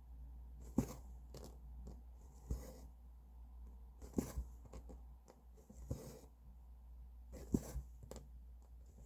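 Hand cross-stitching: the needle taps through the fabric and the thread is drawn through with a soft rustle, one stroke about every second and a half to two seconds.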